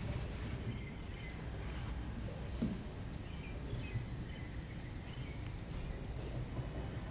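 Steady low outdoor background rumble with faint bird chirps in the first half.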